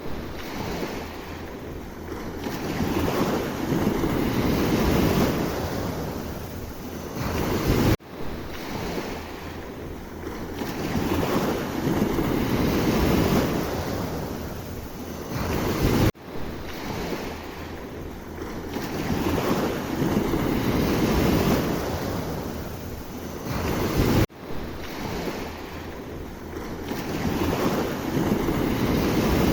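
Sea waves surging and washing on the shore in slow swells, one about every eight seconds, with wind buffeting the microphone. The same eight-second stretch repeats as a loop, jumping abruptly at each join.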